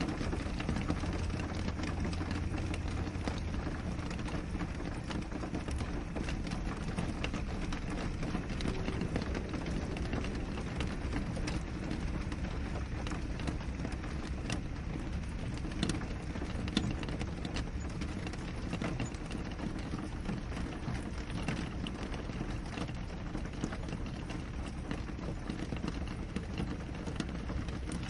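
Steady rain on a window: a constant hiss with many separate drops tapping the glass. A low hum sits underneath for the first few seconds.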